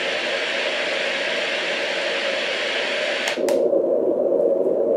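Sztrokia white noise machine playing its first white noise track, a bright, even hiss. About three seconds in, a button click switches it to the second white noise track, a duller, lower hiss.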